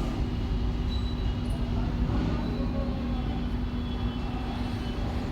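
Steady low mechanical rumble with a constant hum running under it.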